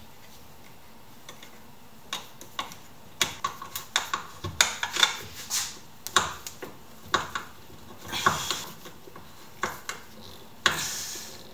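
Irregular clicks and knocks of hard parts being handled and fitted, with a few short scraping swishes, from hand work on a homemade knife-sharpening jig.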